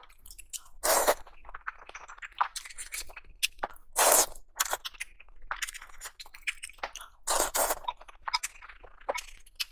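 Close-miked eating: a run of crunching bites and chewing, with the loudest crunches about a second in, around four seconds and again past seven seconds.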